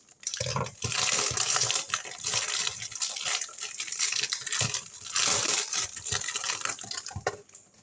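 Plastic packaging crinkling and rustling in the hands as a small product is unwrapped, with many little clicks and crackles; it dies away near the end.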